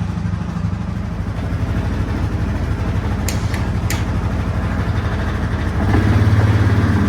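Yamaha Grizzly ATV engine idling steadily, with two sharp clicks a little past three and four seconds in. About six seconds in the engine gets louder as it takes throttle to start plowing.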